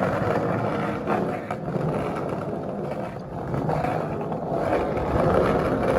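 Skateboard wheels rolling fast on a concrete parking-garage ramp, a steady rumble with two short clacks about a second and a second and a half in.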